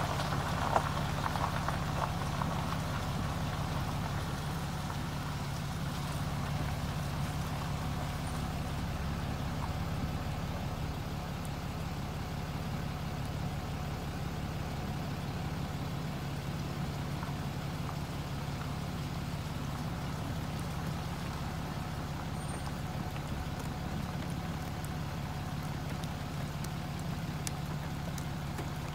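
Vehicle engine idling steadily, a constant low hum heard from inside the cab, with a few light clicks in the first couple of seconds.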